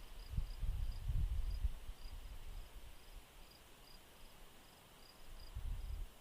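Faint, regular high-pitched chirps, about two a second, each a quick pulsed trill, typical of a chirping insect such as a cricket. Low rumbles sound under it during the first second and a half and again near the end.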